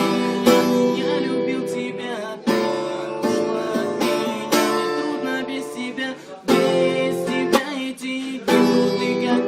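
Acoustic guitar strumming chords, with a fresh strum about every two seconds that rings out and fades, as the instrumental close of the song after its last chorus.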